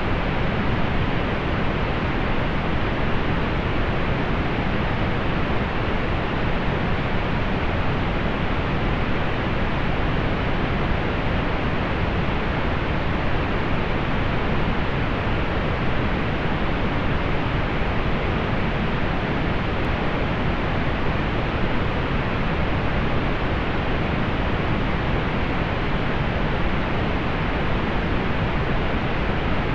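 Steady synthetic pink noise: an even, unchanging hiss with the treble rolled off, soft and rushing rather than bright.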